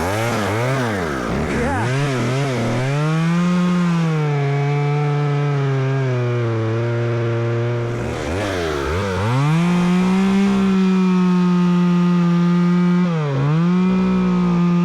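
Dirt bike's single-cylinder engine blipping the throttle several times, then running at a steady high pitch with brief dips in revs as it is ridden along single track.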